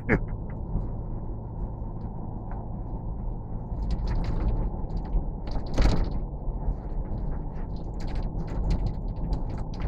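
A steady low mechanical rumble, with scattered short clicks and creaks that grow more frequent in the second half.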